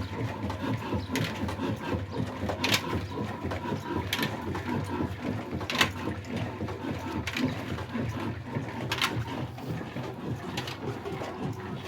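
Old heavy diesel engine running slowly: a steady low mechanical clatter with a sharp knock about every one and a half seconds.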